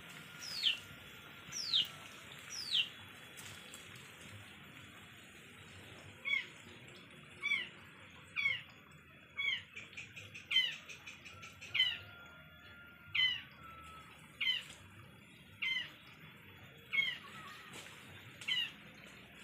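A bird's short, high call that falls in pitch, repeated about once a second: four calls at the start, then after a pause of a few seconds a long, steady run of calls.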